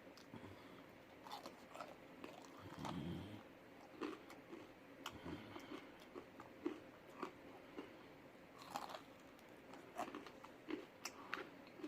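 A person faintly chewing food close to the microphone, with small irregular mouth clicks and smacks.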